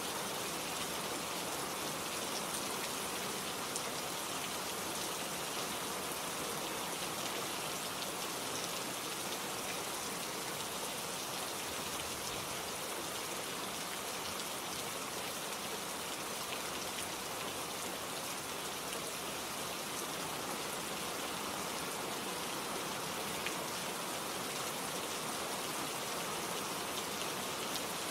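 Steady rain falling, a dense even hiss of drops with faint scattered patters of individual drops on leaves and surfaces.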